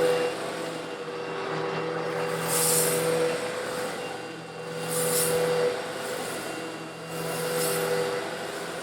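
Eureka vacuum cleaner running with a steady motor hum while it sucks up coarse stone granules. The granules rattle and hiss through it in swells every two to three seconds.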